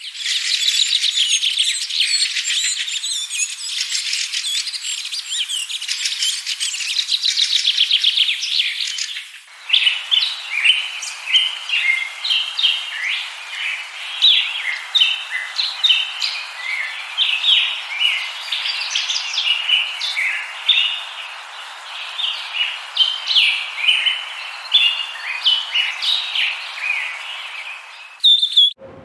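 Small birds chirping in two joined stretches: dense, rapid high trilling for about the first nine seconds, then a cut to a busy run of short high chirps at varied pitches.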